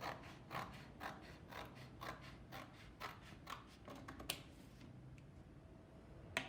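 Scissors cutting through thin cereal-box cardboard, with crisp snips about two a second that stop about four seconds in.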